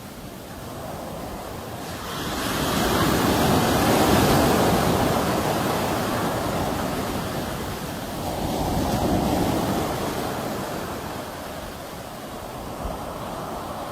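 Sea waves surging and washing in: a large swell of surf builds about two seconds in and slowly fades, then a smaller one rises and falls again near the middle.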